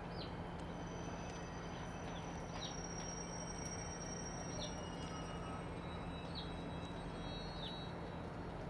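Short high chirps of a small bird, each falling in pitch, repeated every second or two over steady outdoor background noise and a low hum.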